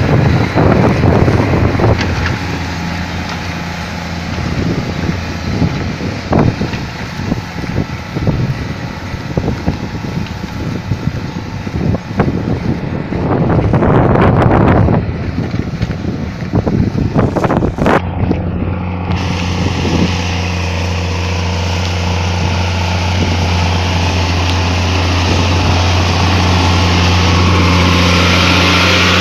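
150 hp Case tractor's diesel engine running while plowing. Uneven surges of noise and a few knocks over the first two-thirds, then it settles into a steady, even hum.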